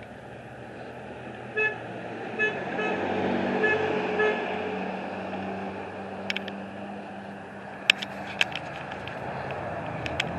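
A motor vehicle running past, its rumble swelling in the middle, with several short horn toots in the first few seconds. A few sharp clicks come near the end.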